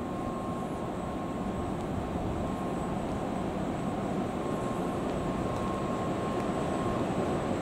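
N700S Shinkansen train at the platform: a steady mechanical hum and rush from its equipment, with a faint steady high-pitched tone above it. It grows slightly louder near the end.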